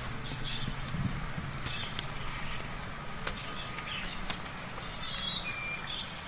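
Birds chirping in short calls and whistles over the steady hiss of soft rain, with scattered sharp drip-like ticks. A low rumbling hum runs underneath and cuts off abruptly at the end.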